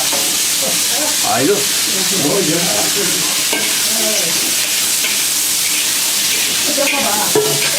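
Squid sizzling in hot oil in a wok as it is stir-fried, a steady loud hiss of frying, with two brief knocks, about a second and a half in and near the end.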